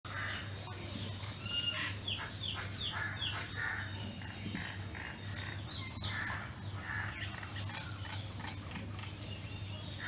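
Birds calling: a quick run of four or five short, curved call notes in the first few seconds, then scattered calls, over a steady low hum.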